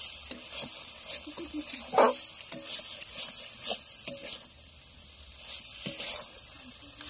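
Prawns sizzling in a spiced masala in a steel kadai, while a metal spatula scrapes and knocks against the pan at an uneven pace as they are stirred. This is the sautéing (kasha) stage, before water goes in, with the loudest scrape about two seconds in.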